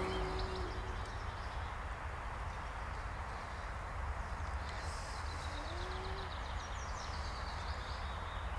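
Songbird calling, with a fast run of high chirps from about halfway through, over a steady low outdoor rumble.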